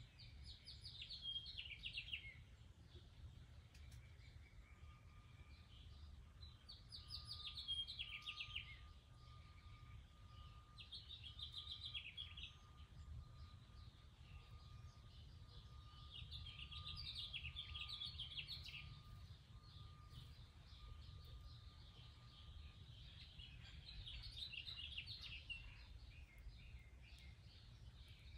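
Faint songbird song: five short trilled phrases several seconds apart, over a low steady rumble.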